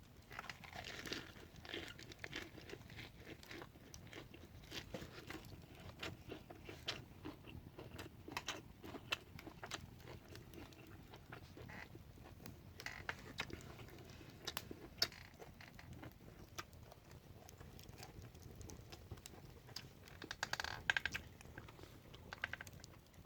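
Faint, close chewing of a lettuce wrap with grilled meat: soft, irregular crunching of the fresh lettuce leaf and small mouth clicks.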